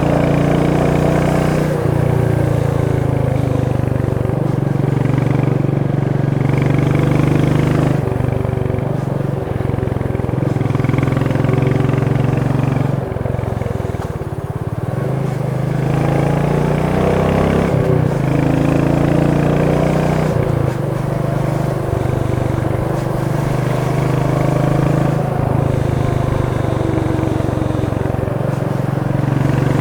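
Royal Enfield Meteor 350's single-cylinder engine and exhaust running steadily while riding, its low beat dipping and rising in pitch a few times with throttle changes.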